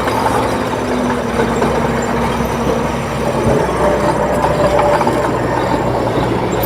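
Heavy diesel earthmoving machinery running steadily, with a low engine rumble and a few steady whining tones that shift in pitch around the middle.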